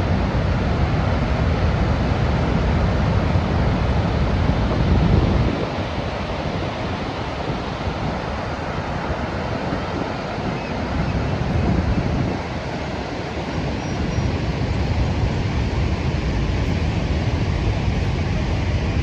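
Steady roar of Niagara Falls' falling water, with wind buffeting the microphone; the low wind rumble eases about five seconds in and builds again a little past halfway.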